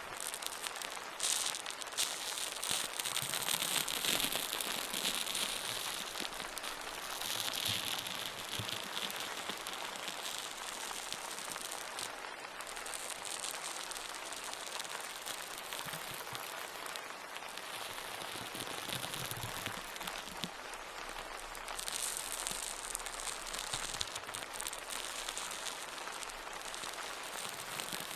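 Steady dense pattering, crackling noise with no speech, swelling louder in the first few seconds and again a little past the middle.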